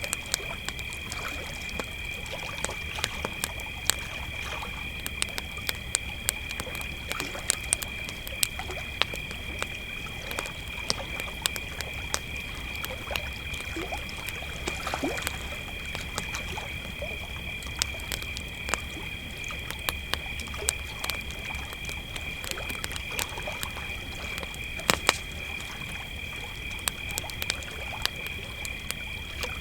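Crickets trilling steadily in a high continuous chorus, over the irregular sharp pops and crackles of a burning campfire, with one louder double pop about 25 seconds in.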